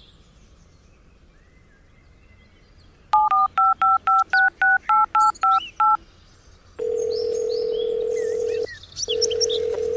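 Phone keypad tones dialling a number: about a dozen quick two-note beeps, then the line's ringing tone as two long steady tones with a short break between them. Birds chirp faintly in the background.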